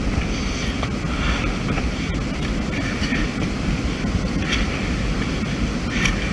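Wind rumbling steadily on a handheld camera's microphone. Over it, a climber breathes hard, with a hissing breath about every second and a half.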